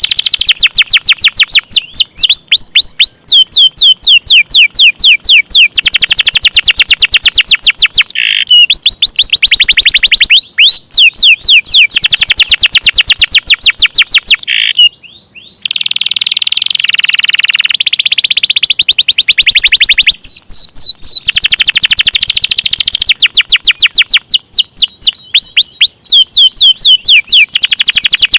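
Domestic canary singing long rolls: fast trills of rapidly repeated notes that change from one trill type to the next every second or two, with one short break about halfway through.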